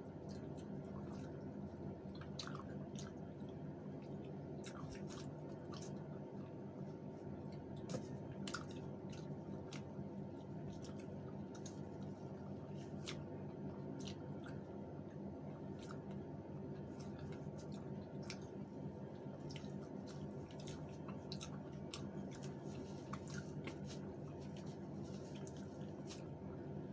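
Chewing with soft wet mouth clicks scattered throughout, over a steady low hum.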